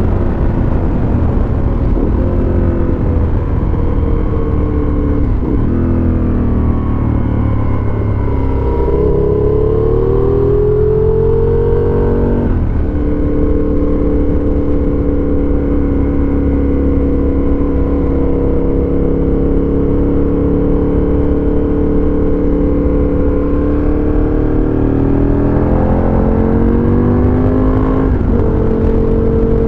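Aprilia RSV Tuono Factory's V-twin engine through a dual GPR exhaust, heard from the rider's seat. The rider pulls up through the gears: the engine note climbs and drops sharply at a shift three times, about five, twelve and twenty-eight seconds in. Between about thirteen and twenty-four seconds it holds a steady cruise.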